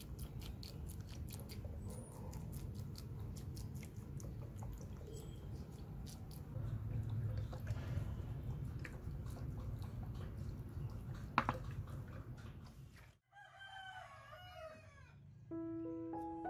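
A steady low rumble with scattered clicks, which cuts off about thirteen seconds in. A rooster then crows once for about two seconds, and piano music comes in near the end.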